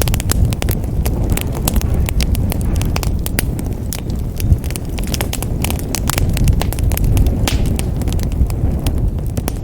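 Wood fire burning in a fireplace: constant irregular crackles and pops over a steady low rumble of the flames, with one louder pop about halfway through.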